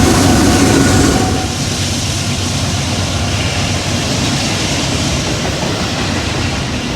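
A passing train, its rolling cars giving a steady rumble and rattle. It is louder in the first second, then eases to an even level.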